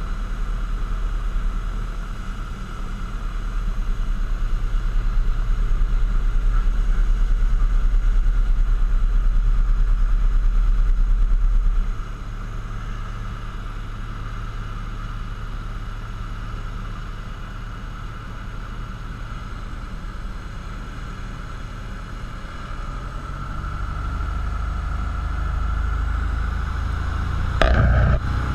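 Cessna 172's piston engine and propeller droning steadily, heard inside the cabin. The drone drops suddenly in level about twelve seconds in and builds again near the end, with a brief louder burst just before the end.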